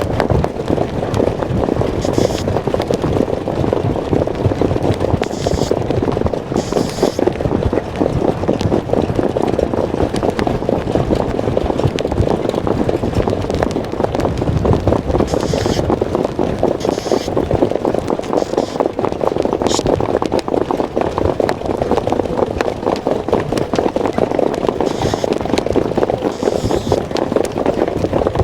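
Harness racehorse pulling a sulky at racing speed, heard from the driver's seat: a loud, steady, fast clatter of hooves and wheels with air rushing over the microphone, and a few short hissy sounds on top.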